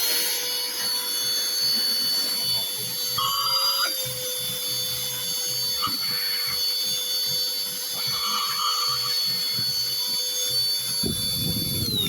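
Cordless handheld vacuum cleaner's small motor running with a steady high whine, then switched off near the end, its pitch falling as it winds down. A brief low rumble comes just before it stops.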